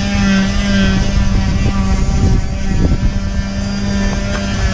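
A machine running steadily, giving a constant, unchanging hum over a low rumble.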